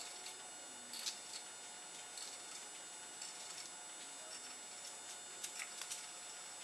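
Faint, scattered light clicks and taps of small metal parts being handled, as the ring gear bolts are worked on the differential carrier: a few about a second in and a quick cluster near the end.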